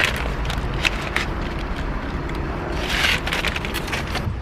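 Trash being handled inside a car: scattered crinkles and crackles of wrappers and plastic, with a louder rustle about three seconds in, over a steady low rumble.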